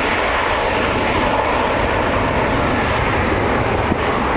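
Airbus A380's four turbofan engines: a steady, loud jet rumble and roar as the airliner makes a slow, low flyby.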